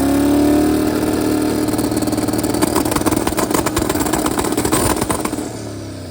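Twin-turbo LS V8 revved up and held on its two-step launch limiter, with rapid popping and crackling from about two and a half seconds in, then let off shortly before the end. Holding it on the two-step this way is rough on the turbo's fins.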